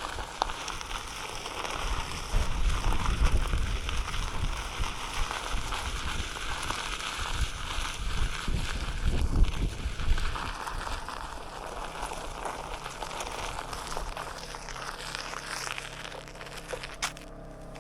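Ride noise on a Onewheel: irregular low buffeting over a steady rush, easing off in the last few seconds.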